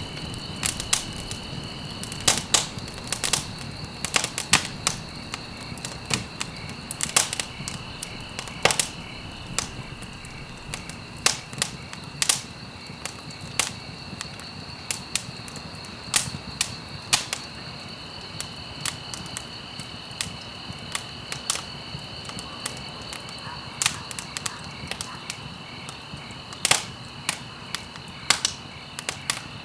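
Wood fire crackling in a fireplace: irregular sharp pops and snaps, several a second at times, over a steady low hiss of burning.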